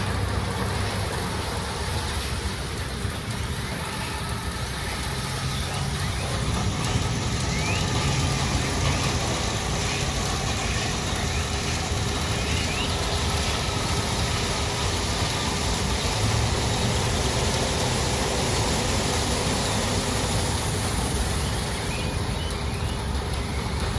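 Steady mechanical noise of an automatic vehicle wash running, with a continuous low rumble and a hiss, and a few faint short squeaks.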